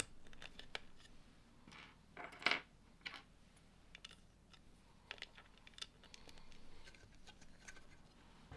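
Plastic Lego bricks being handled and snapped together: a scattered series of small sharp clicks, with a louder rustle of pieces about two and a half seconds in.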